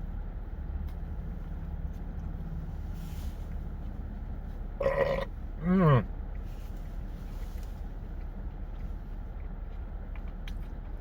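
A man burps twice in quick succession about five seconds in; the second burp is louder and falls in pitch. A steady low rumble runs underneath.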